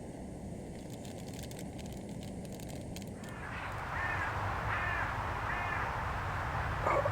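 A bird cawing, three harsh caws about two-thirds of a second apart in the second half, over a steady background hiss.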